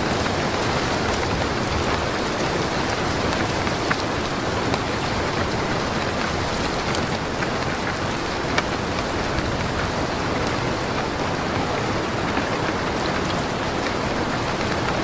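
Strong wind: a steady rushing noise with a few faint sharp ticks scattered through it.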